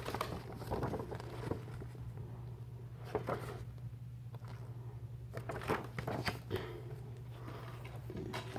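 Scattered rustling and light clicks of a plastic DVD case and its paper booklet being handled, over a steady low hum.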